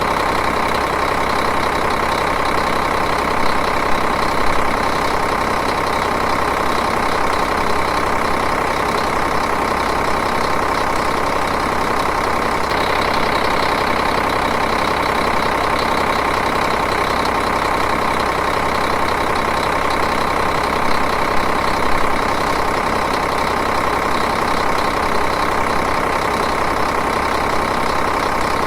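Diesel engine idling, a steady even running sound with no change in speed.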